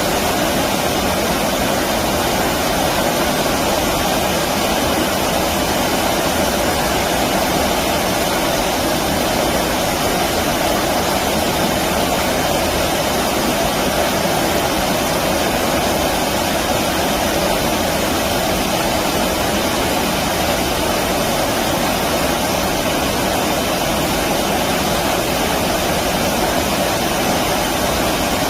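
Stream water rushing steadily: a constant, even noise with no breaks.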